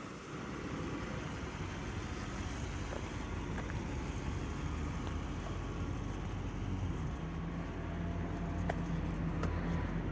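1996 Lexus LS400's 4.0-litre V8 idling: a low, steady hum that grows a little stronger in the second half.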